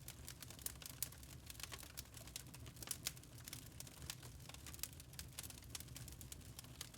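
Burning wood logs in a fireplace crackling, with irregular sharp pops and snaps over a low, steady rumble. The pops are strongest about a second in and around three seconds in.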